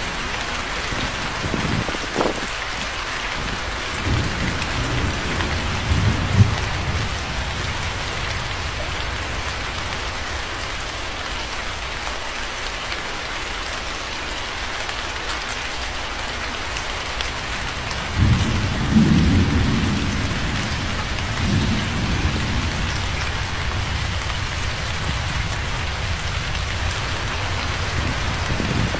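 Steady heavy rain hissing on surfaces, with rolls of thunder: a short crack and low rumbles in the first few seconds and a longer, louder rumble about eighteen seconds in.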